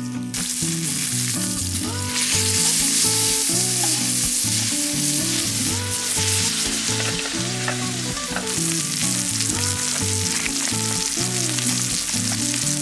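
Meat frying in a wrought-iron frying pan: a loud, steady sizzle that starts suddenly just after the start and grows louder about two seconds in. Background music plays underneath.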